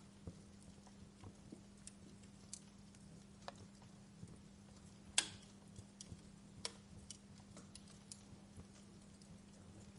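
Wood fire in a fireplace crackling faintly, with irregular small pops and snaps and one sharper pop about five seconds in.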